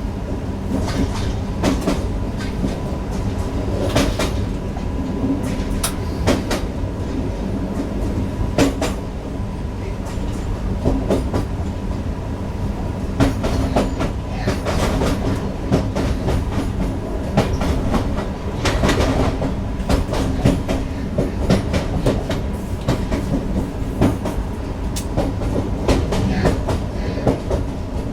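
Newag Impuls EN63 electric multiple unit heard from the driver's cab while running, with a steady electric hum over the rumble of the running gear. Its wheels knock and clatter irregularly over the track.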